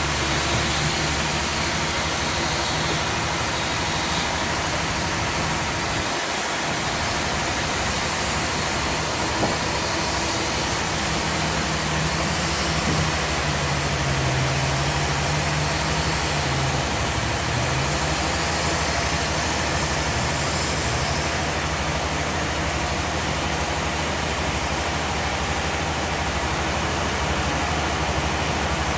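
Sawmill machinery running steadily: a low engine hum under a dense, even noise, the engine note dipping briefly about halfway through.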